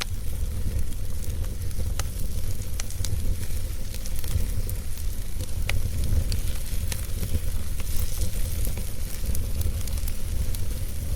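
Wood fire burning, with scattered sharp crackles and pops, several a second, over a steady low rumble.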